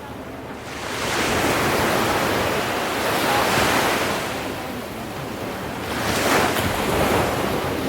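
Ocean waves breaking and washing ashore in repeated swells, one building about a second in and another near 6 seconds.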